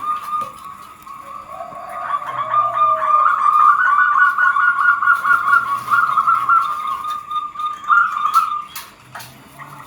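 Zebra dove (perkutut) cooing: a fast run of repeated high notes that swells a couple of seconds in, holds through the middle and fades out near the end.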